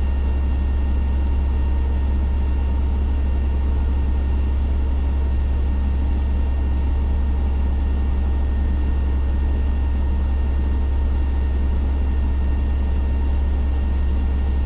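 Fire engine's diesel engine running steadily, heard from the dashcam: a constant low drone with a few faint steady high tones above it.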